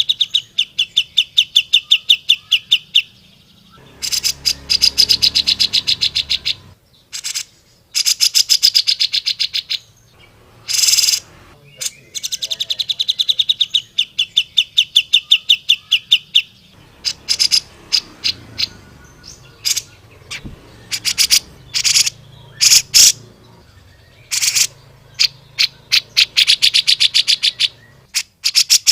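Grey-cheeked bulbul (cucak jenggot) calling in fast, rattling trills of evenly repeated notes, each phrase two to four seconds long. Between the phrases come short single calls, and they are choppier in the second half.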